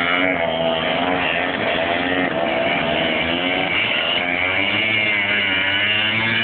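Motocross motorcycle engines running and revving, their pitch rising and falling as the throttle opens and closes.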